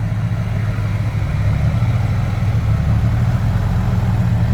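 Heavy diesel engine running with a steady low drone.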